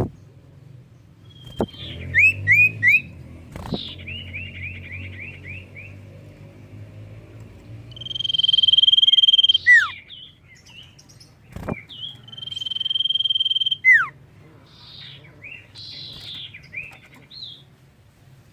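Common iora (cipoh) singing: bursts of quick chirping notes and a fast trill, two long steady high whistles each held about a second and a half, and several sharp down-slurred whistles between them.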